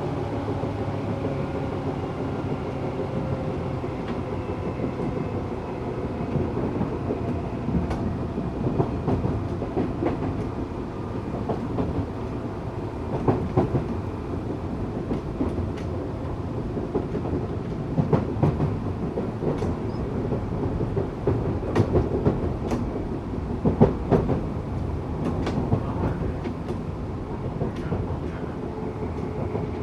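Tokyu 8500 series electric train running, heard from inside the car. A motor whine slowly falls and fades over the first several seconds. The wheels then clack over rail joints, with the loudest knocks about 13, 18 and 23 seconds in.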